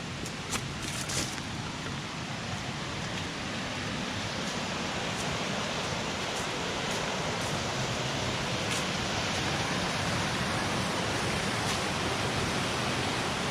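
Waterfall: a steady rush of falling water that grows gradually louder, with a few light clicks in the first second or so.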